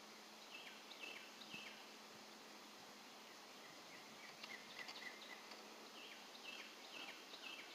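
Near-silent outdoor ambience with faint, short, high calls from a small animal, repeated about twice a second: three notes early, then four near the end.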